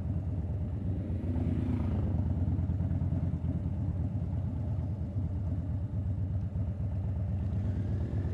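Harley-Davidson Dyna Fat Bob's air-cooled V-twin engine running steadily under the rider on the move, a loud, low engine note.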